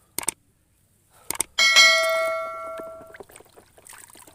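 A single bell-like ding, preceded by a few short clicks, that rings for about a second and a half and then cuts off suddenly.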